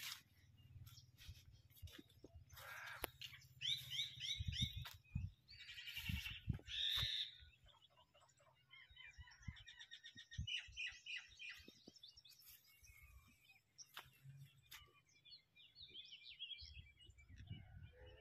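Small birds chirping and twittering faintly in several bursts of quick repeated notes, with a few soft low thumps between about four and seven seconds in.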